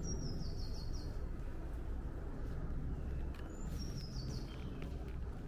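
Small songbirds calling: a short high stepped phrase in the first second and another about four seconds in. Under them runs a steady low rumble.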